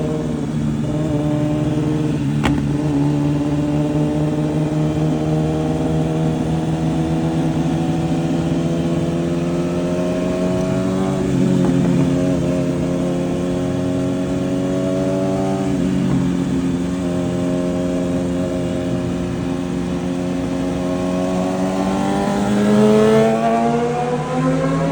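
Superbike engine with a titanium full exhaust running at steady highway revs, briefly dipping twice in the middle, then revving up as it accelerates near the end.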